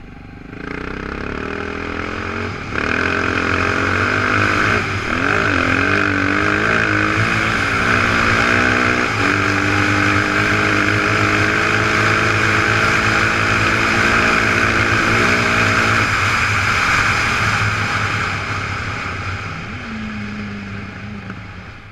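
Off-road motorcycle engine pulling away and shifting up through the gears in the first few seconds, then running steadily at speed under loud wind rush on the microphone, easing off over the last few seconds.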